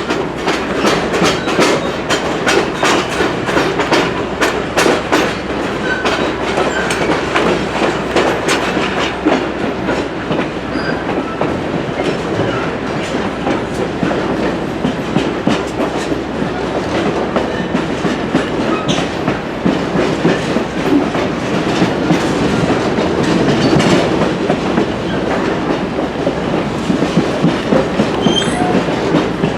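A passenger train rolling along the track, with a steady rumble and the wheels clicking over rail joints, the clicks coming thickest in the first third.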